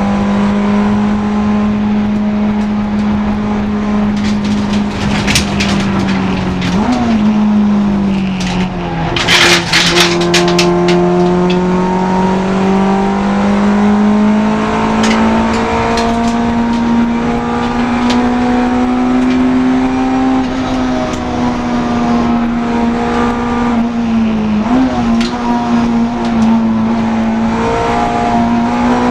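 Honda Integra DC2 race car's engine running hard on track, its pitch held high and fairly level. It dips briefly twice, about a quarter of the way in and near the end, and climbs again. There is a cluster of sharp knocks about a third of the way in.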